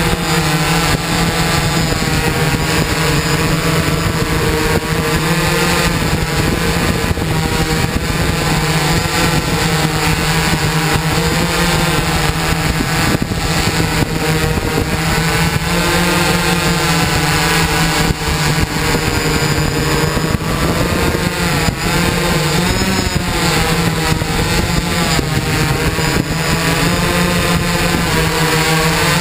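Electric motors and propellers of a hexacopter running in flight, a steady buzzing whir whose pitch keeps rising and falling as the motor speeds change to hold and steer it.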